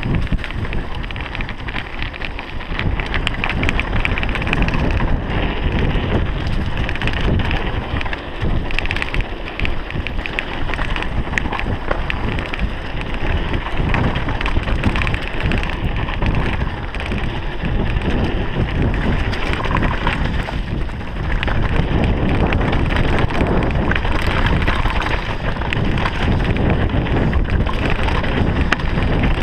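Mountain bike descending a rough trail: steady wind noise on the microphone, tyres running over dirt and rock, and the bike clattering and rattling over the bumps.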